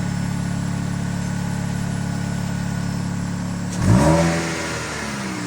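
Chevrolet Cobalt four-cylinder engine idling steadily through its freshly repaired muffler and catalytic converter. About four seconds in it is revved once, the pitch rising quickly, then falling back toward idle.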